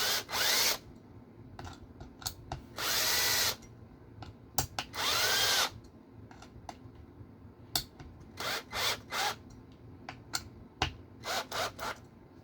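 Small electric screwdriver running in short bursts, driving small screws, with the motor speeding up and slowing within each run; the longest runs come about three and five seconds in, then several quicker bursts follow. Light clicks and handling noise of small parts between the runs.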